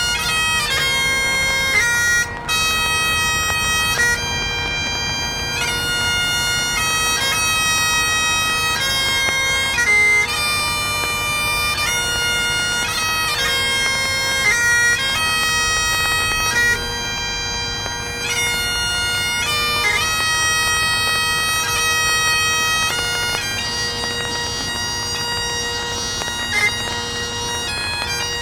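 Wind-instrument music: a slow melody of long held notes played over a steady unbroken drone, with no drums.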